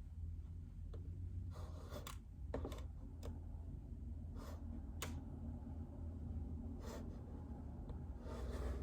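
Sparse, soft keystrokes on a keyboard with silent linear switches: scattered single dull clicks a second or so apart, with a couple of brief rustling sounds, over a low steady hum.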